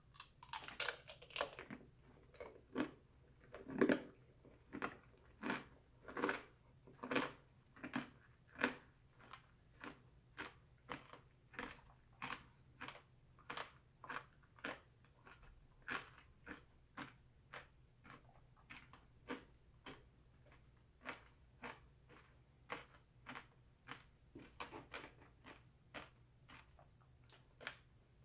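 A mouthful of candied strawberry being bitten and chewed, its hard sugar shell crunching. A quick cluster of crunches comes at the bite, then steady chewing at about three chews every two seconds, louder in the first few seconds and softer later.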